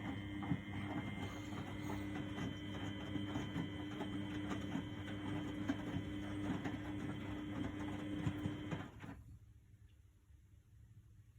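Miele W828 front-loading washing machine filling with water, the inlet valve humming and the water splashing and crackling into the drum, then the valve shutting off abruptly about nine seconds in.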